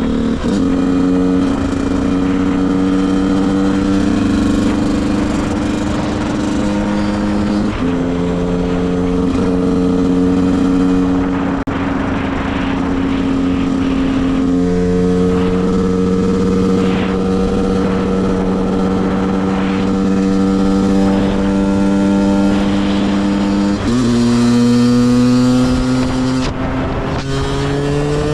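2010 KTM 125 EXC's two-stroke single-cylinder engine running under way through a CRD expansion chamber and stock silencer. It holds fairly steady revs with small shifts in pitch, drops sharply about three-quarters of the way through, then revs up near the end.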